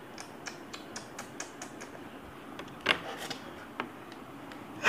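Close-up chewing of spicy instant cup noodles: a quick run of small, wet mouth clicks, about four or five a second, with one louder, noisier sound about three seconds in.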